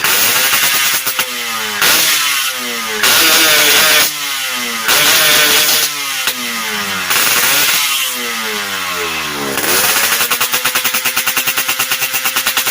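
Yamaha RX King's two-stroke single-cylinder engine revved through a stock muffler with its baffles gutted, blipped hard about five times with the pitch rising and falling back each time, then settling to a steady idle in the last few seconds.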